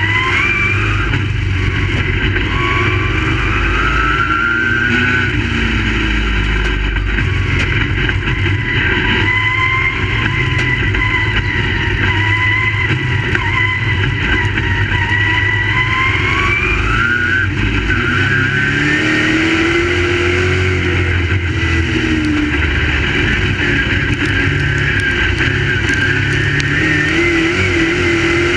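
Crate late model race cars' V8 engines running together at racing speed, their pitch rising and falling in repeated long sweeps as the engines rev up and ease off.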